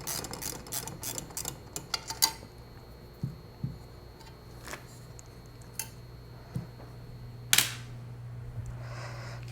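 Ratcheting hand tool clicking rapidly for about two seconds as a fastener is worked loose inside a disco light, then a few scattered sharp clicks and knocks of parts being handled, one louder click near the end. A low steady hum comes up in the second half.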